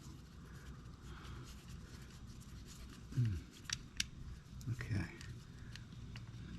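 Small metal engine parts handled while the oil filter cover comes off a Honda CRF250F, with a few sharp clicks a little over three and a half seconds in. A short low sound falling in pitch comes just before them.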